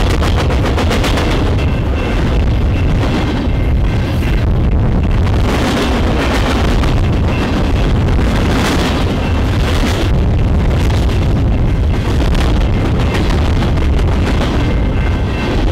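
Freight train cars rolling past at close range: a heavy, steady rumble of steel wheels on the rails with a continuous clatter of wheel clicks.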